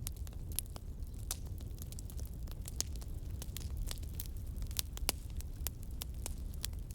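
Campfire crackling: irregular sharp pops and snaps of burning wood over a low, steady rumble.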